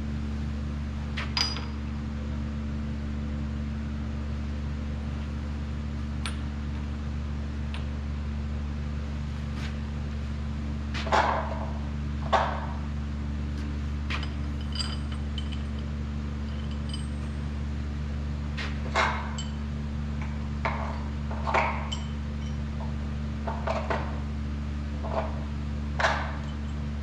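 Steady low machine hum with irregular light clinks and knocks of metal parts and tools being handled, a dozen or so, some in quick pairs.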